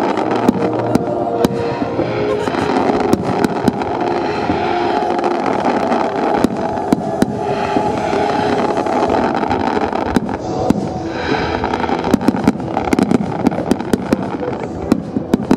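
Aerial fireworks display: many sharp bangs of shells bursting in quick succession over a continuous dense crackle.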